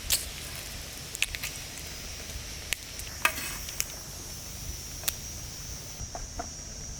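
Food frying in a pan over a campfire: a steady sizzle with scattered sharp pops and crackles.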